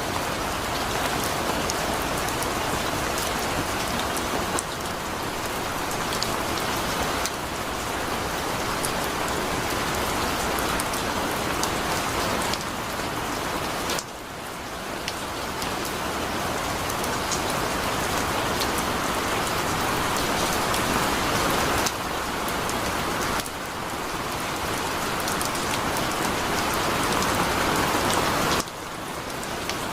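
Heavy rain falling steadily: a dense hiss with the ticks of single drops on top. The loudness dips suddenly a few times and builds back up.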